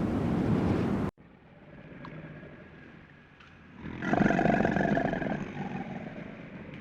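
A steady rushing, wind-like noise that cuts off abruptly about a second in, then a quieter stretch, then a farm animal's long drawn-out call starting about four seconds in and slowly fading.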